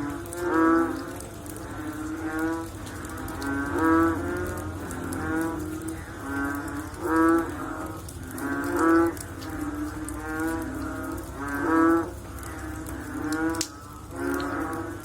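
Chorus of frogs calling after rain: several overlapping low, pitched calls about half a second long, repeated every second or so.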